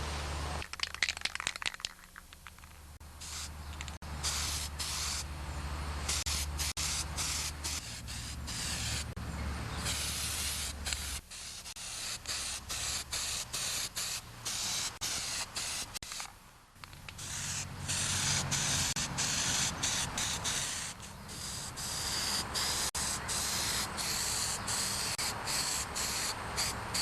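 Primer being sprayed onto metal grille parts in many short hissing bursts, each starting and stopping sharply, with a faint low hum underneath.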